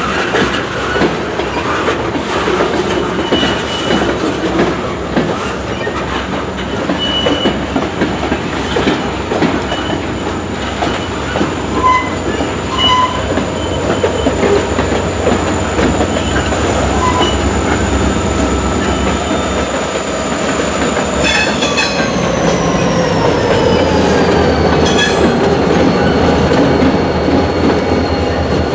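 CSX local freight train rolling slowly, wheels clicking over rail joints with brief high wheel squeals, over a steady low rumble that grows stronger in the second half. A thin high whine drops in pitch a little past two-thirds of the way through.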